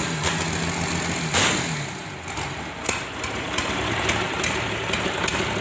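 Mitsubishi 6D15 six-cylinder diesel engine running. Its speed drops about a second and a half in, then it settles to a steady idle.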